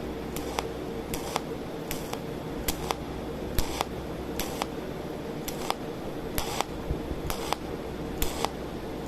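SZ-GCS03 PLUS cold welding machine pulse-welding thin aluminum plate: a run of short, sharp snapping clicks, about two a second and often in close pairs, one for each weld pulse, over a steady low hum.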